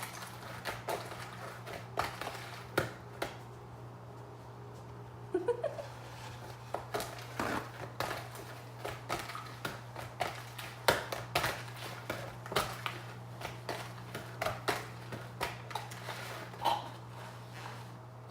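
Irregular small clicks and knocks from objects being handled at a kitchen table, over a steady low electrical hum.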